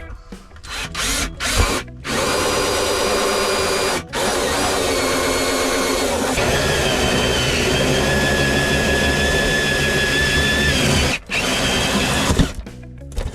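Power drill running under load, plausibly driving mounting screws into the wall: one short run, then a long run of about seven seconds whose whine shifts in pitch, and a brief burst near the end.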